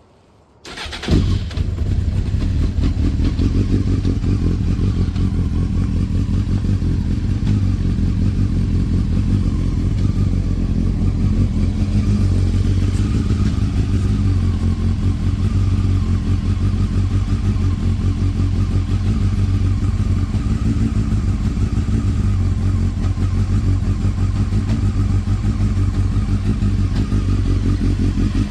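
1996 Honda CBR900RR's inline-four engine cranked on the starter and catching about a second in on a cold start, then idling steadily.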